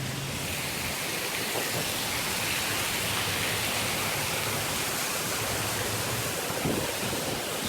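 Heavy rain pouring down hard: a steady, dense hiss.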